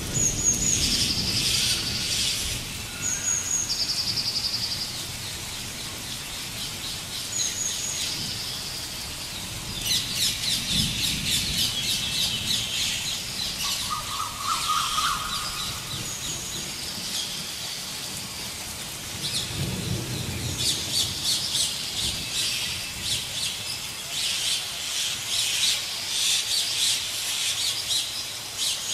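Birds calling: high chirps and short whistled notes, with stretches of rapid chirping trills and one lower whistled phrase about halfway through.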